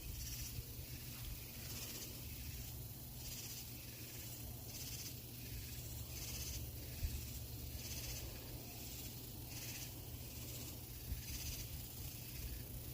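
Night chorus of calling male insects: high-pitched, hissing pulses that repeat roughly once a second, with a steady low hum underneath.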